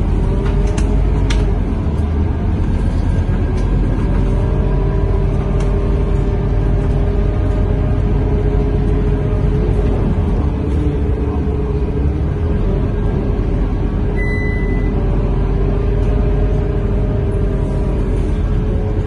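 Cabin sound of a Scania K230UB Euro V city bus under way: the rear-mounted diesel engine and driveline humming steadily over a low road rumble, with a few sharp rattles near the start. A short high beep sounds about 14 seconds in.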